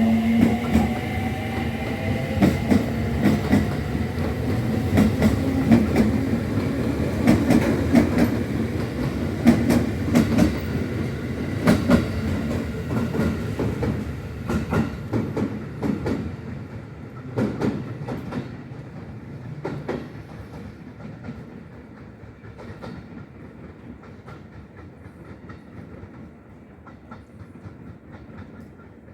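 A train running past on the rails, its wheels clacking repeatedly over rail joints. The sound then fades steadily as the train moves away.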